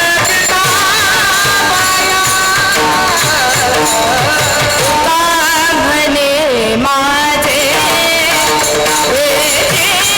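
Marathi devotional kirtan singing of a panchpadi: a voice holds long, wavering, ornamented notes over instrumental accompaniment with a percussion beat.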